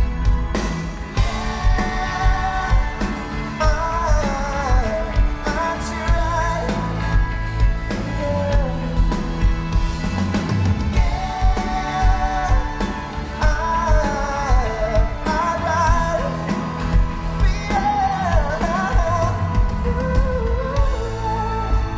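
A live pop-rock band playing, with a lead vocal over a heavy, steady drum and bass beat, recorded close to the stage at a concert.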